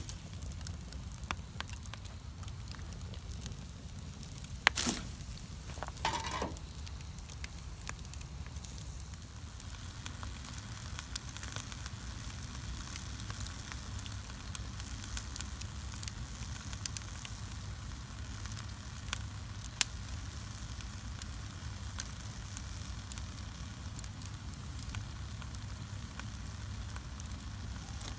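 Bonfire burning with a steady hiss and scattered crackles, and a few sharp pops from the burning fuel, the loudest about five seconds in and again near twenty seconds. The hiss grows brighter about ten seconds in.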